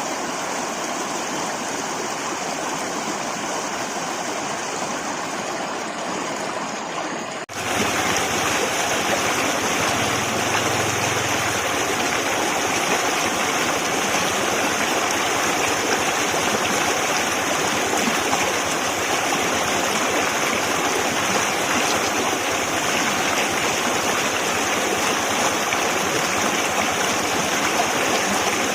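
Forest river flowing over rocks: a steady rush of water. About seven and a half seconds in it cuts abruptly to a louder, brighter stretch of rushing water.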